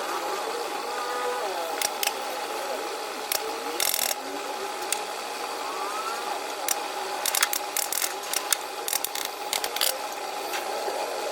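Scattered sharp clicks and taps, coming thicker and in quick runs in the second half, over a steady background hum.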